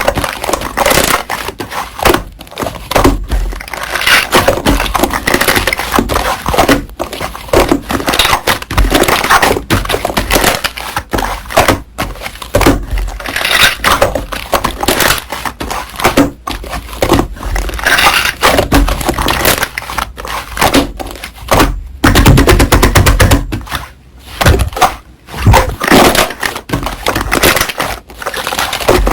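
Slime being squeezed and kneaded by hand, with dense crunching and crackling, including a burst of very rapid fine crackling about two-thirds of the way through.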